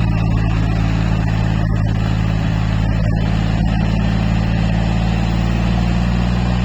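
Tractor's diesel engine running at a steady pitch under load.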